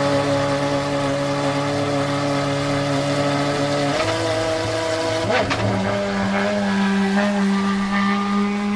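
Pagani Huayra R's naturally aspirated V12 idling steadily. Its note changes about four seconds in and settles lower, and the car then pulls away at low revs.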